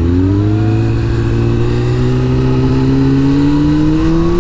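Sport motorcycle engine pulling in one gear, its pitch rising slowly and steadily as the bike accelerates.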